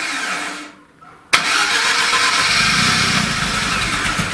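Starter motor cranking the freshly rebuilt VAZ 2102 four-cylinder engine on choke for its first start. It stops briefly, a sharp click comes about a second in, and the cranking resumes with an uneven low pulsing, the engine not yet running steadily.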